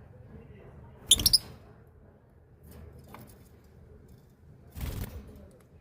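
Small birds: a loud, sharp three-part chirp about a second in, and a softer noisy burst near the end.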